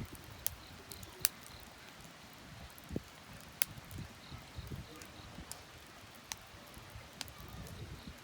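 Wood fire crackling, with sharp pops at irregular intervals.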